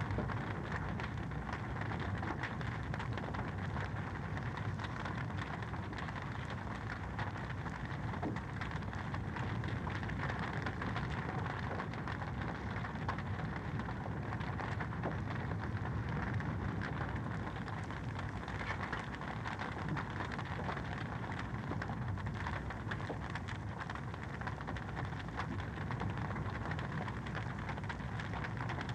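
Wood fire crackling in a fireplace: a dense, steady stream of small pops and crackles.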